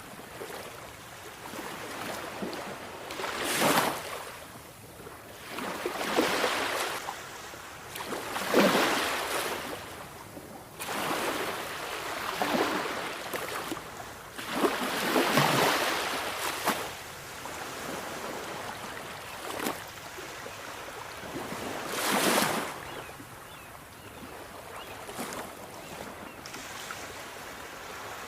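Sea waves breaking and washing over the shore, each surge rising and falling every two to three seconds over a steady hiss of surf.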